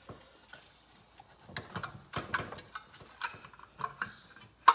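Small metal engine parts, gears and the rotary valve plate, clinking and tapping irregularly as they are worked off the shaft and handled, with a sharper clink near the end.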